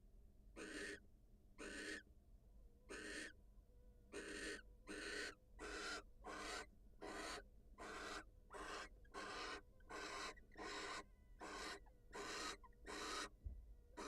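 Barn owl giving a run of short, raspy hissing calls, at first about a second apart, then quickening to about two a second.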